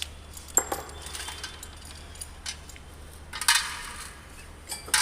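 Loose metal engine parts and hand tools clinking and clattering on a workbench. There are single sharp clinks about half a second in and halfway through, a cluster of clinks about three and a half seconds in, and more near the end, over a steady low hum.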